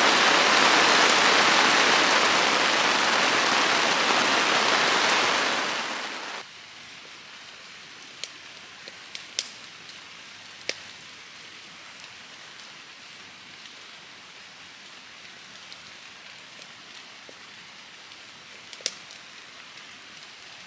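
Heavy rain falling as a loud steady hiss. About six seconds in it cuts abruptly to a much quieter patter, with occasional single drops landing sharply.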